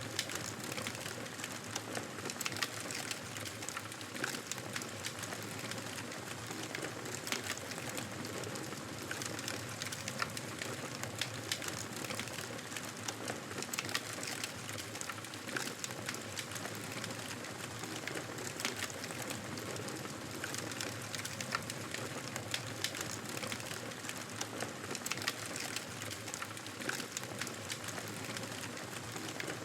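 Fire in a fireplace crackling steadily: a continuous hiss with frequent sharp pops and snaps scattered throughout.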